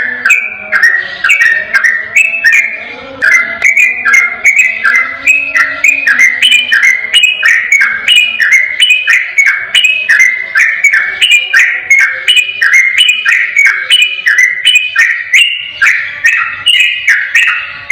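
Yellow-vented bulbul (trucukan) singing its rapid 'ropel' song: a quick, unbroken run of short, repeated bubbly whistled notes, about three a second.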